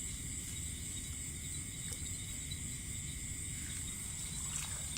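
Steady chorus of crickets and other insects, a continuous high buzz in several bands, over a low rumbling noise, with a few faint ticks.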